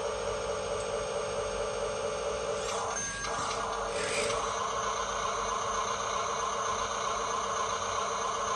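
Electric motor and plastic gearbox of a radio-controlled dump truck whirring steadily, its pitch shifting about three seconds in.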